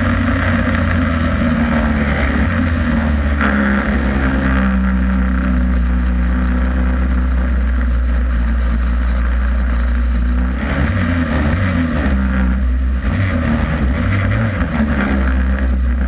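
Superstox stock car's engine heard from on board, running at low steady revs. From about ten seconds in the revs rise and fall briefly several times.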